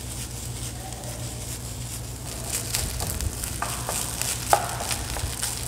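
Egg fried rice sizzling in a hot non-stick pan while a spatula stirs and scrapes it, with a scatter of light knocks of the spatula against the pan, busier in the second half and one sharper knock a little past the middle.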